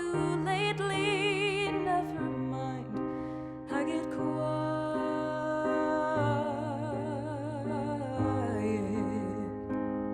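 Slow, tender song: a woman's voice singing held, wordless notes with vibrato over a soft instrumental accompaniment whose bass note changes about every two seconds.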